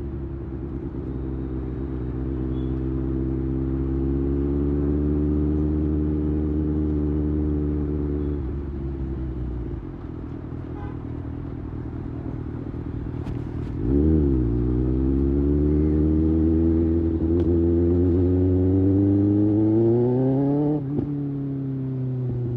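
2024 Kawasaki ZX-6R's 636 cc inline-four engine pulling at highway speed. Its pitch holds and rises slowly, and the throttle eases off about eight seconds in. It opens up sharply around fourteen seconds, and the pitch climbs steadily until it drops suddenly near the end, as at a gear change.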